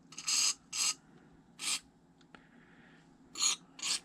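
Aerosol lubricant sprayed in short bursts on a water pump part: about five quick hisses, two close together near the start and two more near the end.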